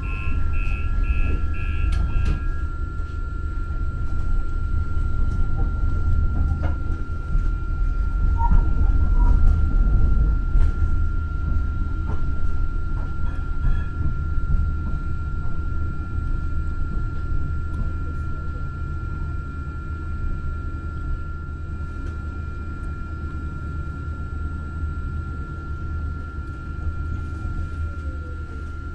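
Muni Metro light-rail train running, with a steady low rumble and a constant high whine. A row of regular beeps stops about two seconds in. The rumble swells a little near the middle and eases toward the end.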